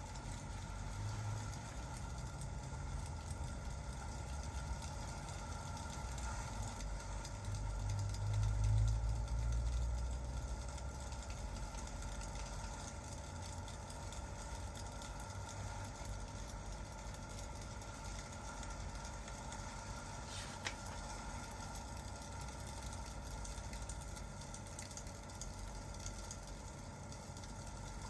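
Steady rain and fireplace ambience: an even hiss of rain with a low rumble that swells about eight to ten seconds in and then eases, and a single faint crackle of the fire about twenty seconds in.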